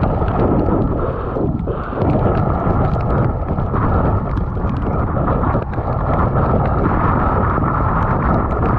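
Loud, steady rumble of wind buffeting a GoPro's microphone while riding an e-bike, with faint ticks above it.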